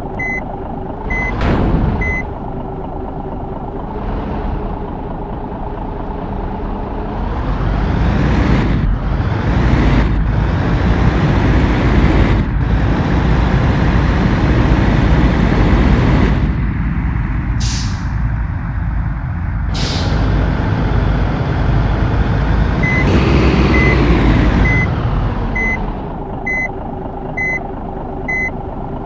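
Truck reversing and turning: its reversing beeper sounds in a steady repeating pattern while the diesel engine revs up and holds for much of the time before settling back. Several short, sharp hisses of air, like air-brake releases, cut through it.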